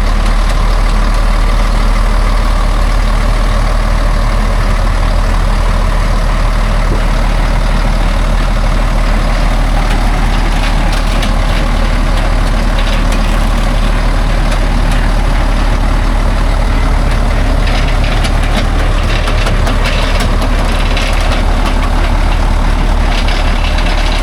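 Heavy logging truck's diesel engine running steadily with a deep, even drone. A scatter of short clicks and knocks comes in over the last several seconds.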